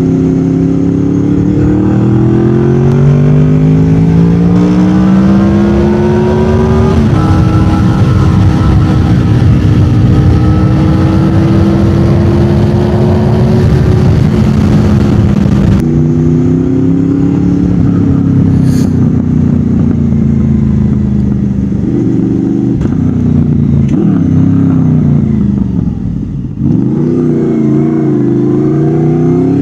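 Honda VFR800 VTEC's V4 engine through a Delkevic aftermarket exhaust with Lextek headers, loud under way. The revs climb over the first several seconds and then hold fairly steady. They drop around sixteen seconds in, sag low a few seconds before the end, and climb again.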